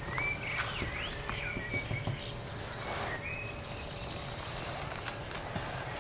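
A bird singing a run of sliding whistled notes, then one more about three seconds in, over a low steady outdoor rumble.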